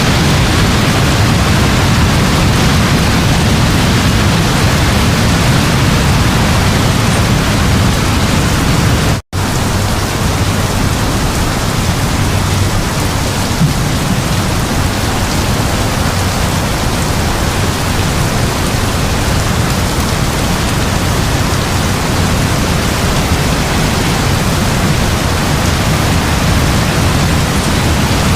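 Heavy, steady rain with a low rumble of distant thunder underneath. The sound cuts out for an instant about nine seconds in, then resumes.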